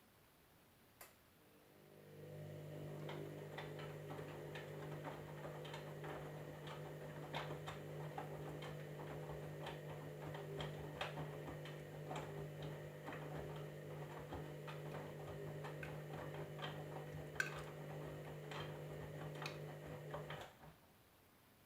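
Candy washing machine starting its drum motor with a click, running with a steady low hum and irregular light ticks for about eighteen seconds during the wash, then stopping.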